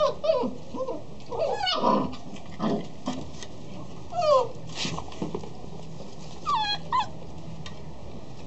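Dogs whining and yipping: short high whines that fall in pitch, coming in bouts about a second and a half in, around four seconds and again near seven seconds.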